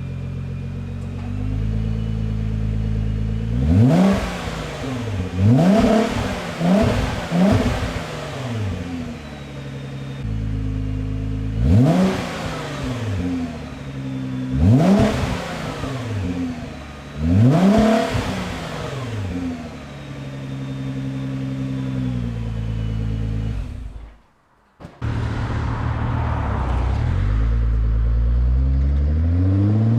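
Nissan GT-R R35's twin-turbo 3.8-litre V6 through an ArmyTrix valved stainless-steel exhaust, idling and blipped in about seven sharp revs, several in quick succession. After a brief cut near the end, the engine climbs steadily in revs in one long pull.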